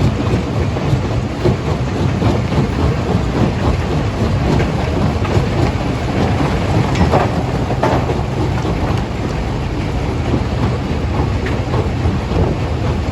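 Stone crusher running under load: a steady heavy rumble with continuous rattling and clatter of rock being broken, and two sharper knocks a little past the middle.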